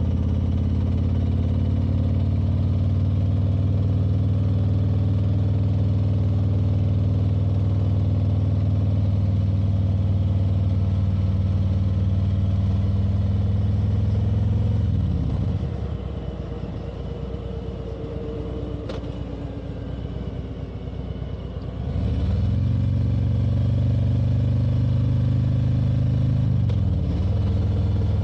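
Motorcycle engine running steadily under way. A little past halfway the throttle closes, and the engine note drops and goes quieter for several seconds. At about 22 s it picks up again, with a short dip and rise near the end like a gear change.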